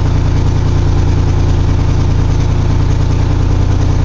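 1982 GMC S-15's carbureted 2.8 L 60-degree V6 idling steadily on the choke's fast idle while it warms up after a cold start. It runs loud, which the owner puts down to a crack in one of the exhaust manifolds.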